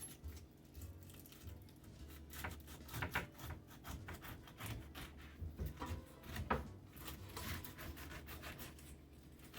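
Knife slicing down through a whole pineapple, faint irregular crunching and scraping as the blade works through it.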